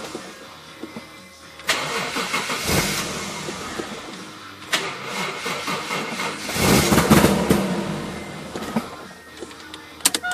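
Toyota 1JZ straight-six engine cranked over in several separate attempts, each starting suddenly and lasting about a second, without starting: a no-start.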